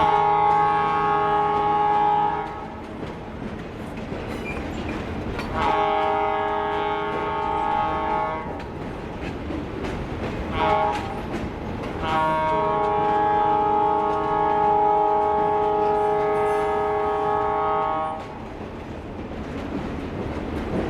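Escanaba & Lake Superior Railroad diesel locomotive's multi-note air horn blowing the grade-crossing signal: two long blasts, a short one about ten seconds in, then a final long blast of about six seconds. Between blasts the train's running rumble and wheel clatter go on.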